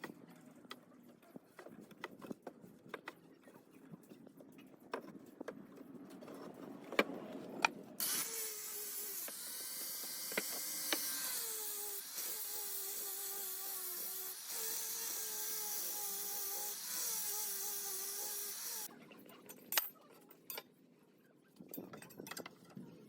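Light taps and knocks of hand work on wood, then an electric power tool runs for about ten seconds, its motor pitch dipping and wavering as it works the wood, before the tapping resumes.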